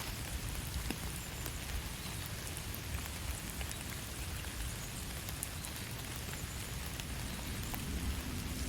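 Steady rain falling, an even hiss with many small scattered drop ticks over a low rumble.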